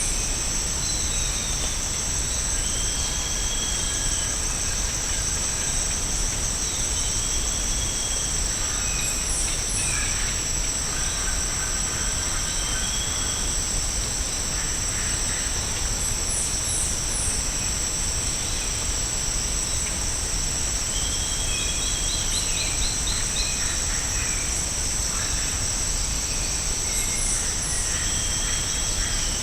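Tropical rainforest ambience: a steady, high-pitched insect chorus droning on two pitches, with short bird whistles and high chirps every few seconds and a brief trill near the end, over a constant low rumble.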